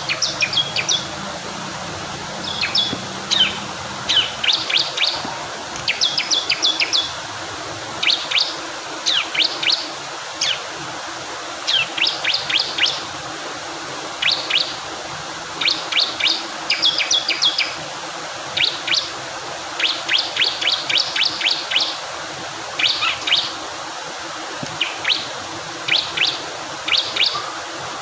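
Male bar-winged prinia (ciblek kristal) singing in short bursts of rapid, high, sharp chirps, about one burst a second, over the steady rush of flowing water.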